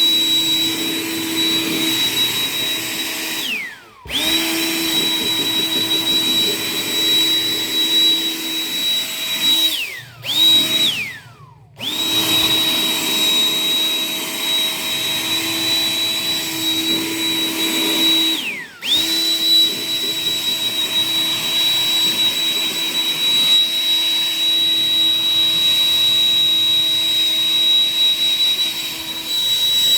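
A small high-speed electric motor whines steadily. It is switched off three times and restarted, and each time it stops its pitch slides down as it spins down.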